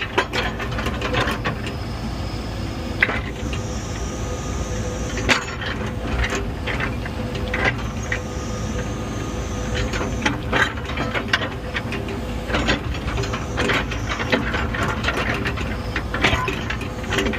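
Heavy earthmoving machine's diesel engine running while back-dragging dirt, with irregular clanks and creaks from the machine's moving parts and a high whine that comes and goes.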